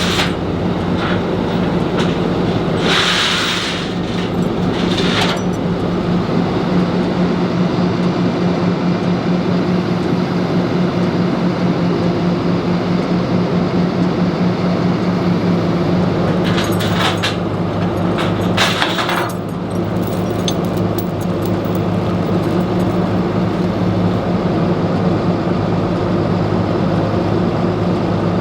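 A vehicle engine running steadily with a constant low hum. Short hissing bursts come about three seconds in and twice more around the middle.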